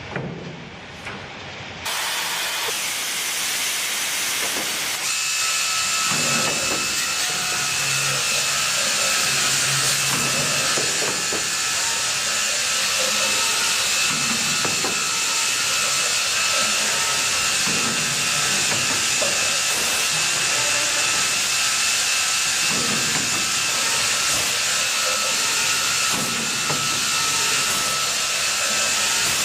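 CNC multi-spindle boring machine running: a loud, steady rushing hiss starts about two seconds in, and a steady high whine joins it a few seconds later, with uneven lower swells as it works.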